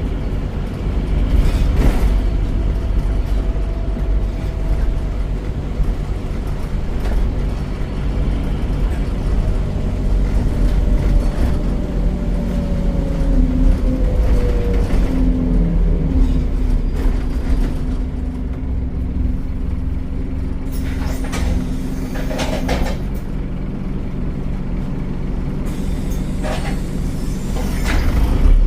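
Scania DC9 9.3-litre diesel engine of a double-decker bus running under way through its ZF automatic gearbox, with a steady low drone and a whine that falls in pitch about halfway through. A few short, sharp noises come in the last third.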